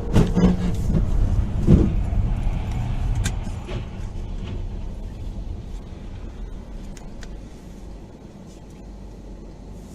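Car on the road with two loud knocks in the first two seconds, typical of a collision, over steady road rumble that then slowly fades.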